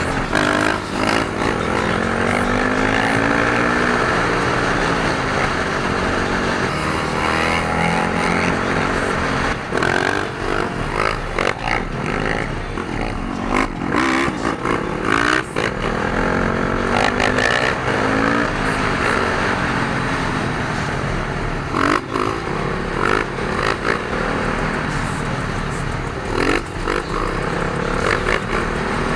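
Dirt bike engines revving up and down repeatedly, with more than one bike running at once.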